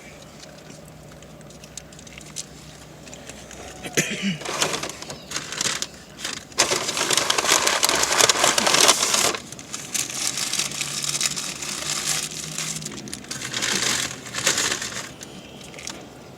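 Paper food wrappers and bags being crumpled and rustled in irregular bursts, loudest and most continuous in the middle stretch.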